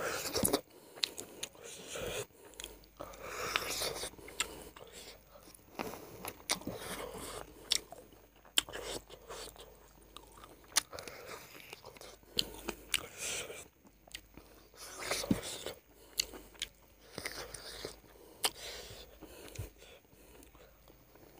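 A person eating chicken leg curry and rice by hand: biting and chewing, with irregular sharp clicks of the mouth and food throughout.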